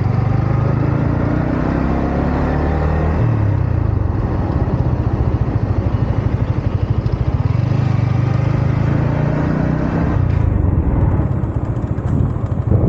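Yamaha MT-15's 155 cc single-cylinder engine and exhaust running under way. It rises in pitch for the first few seconds, drops about three seconds in, then runs on at lower revs with a pulsing beat.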